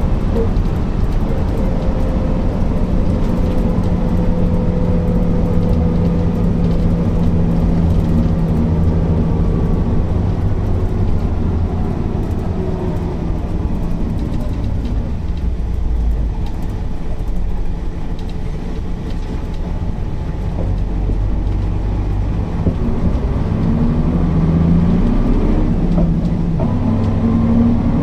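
Mercedes-Benz O408 bus's diesel engine running under way: a steady engine note that eases off and falls in pitch in the middle, then picks up and climbs again near the end as the bus pulls away.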